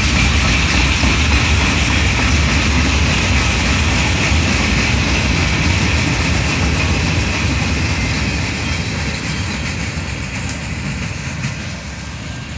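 Freight train cars (boxcars and gondolas) rolling past, steel wheels running over the rails in a steady loud rumble. It grows quieter over the last few seconds as the end of the train moves away.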